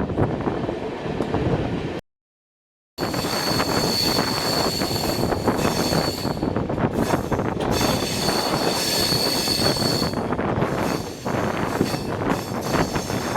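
Passenger train running through a curving mountain ghat section, with steady running noise and a high, thin wheel squeal that comes in twice for a few seconds each. The wheels squeal as they grind through the tight curves. The sound drops out to silence for about a second near the start.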